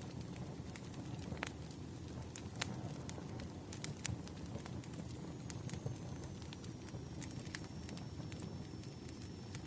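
Campfire burning: a steady low rumble with irregular sharp crackles and pops of the wood.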